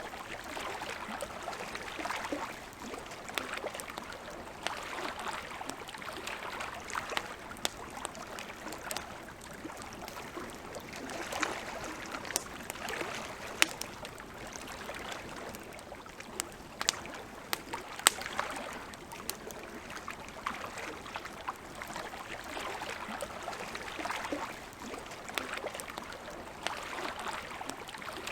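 Campfire crackling, with many sharp pops, over gently lapping lake water that swells and ebbs every few seconds.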